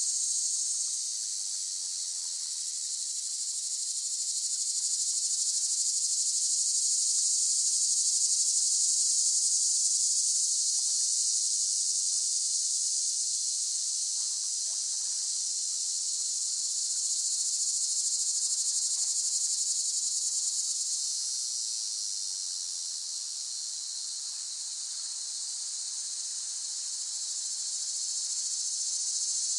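Cicadas droning, a steady high-pitched buzz that swells and eases slowly, loudest about a third of the way in and softest near the end.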